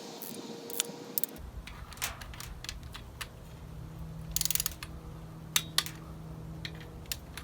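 Hand tools clicking and clattering against metal engine parts, with a quick run of ratchet-like clicks about halfway through. A low steady hum starts about a second and a half in.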